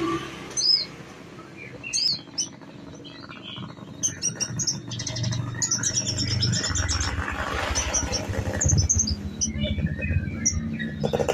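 Canary singing: scattered high chirps and short fast trills, with a longer rapid trill in the middle, over a low background rumble.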